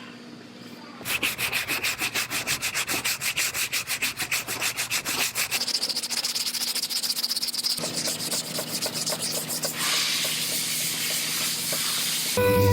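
Hand sanding on a car body panel: sandpaper rubbed back and forth in rapid, even strokes, several a second, starting about a second in and changing in pitch partway through. A steady pitched hum comes in just before the end.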